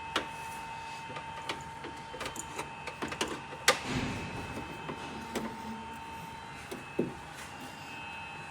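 Scattered clicks, knocks and rustles of a wiring cable and plastic trim being handled and pulled through, with one louder knock about three and a half seconds in, over a steady faint whine.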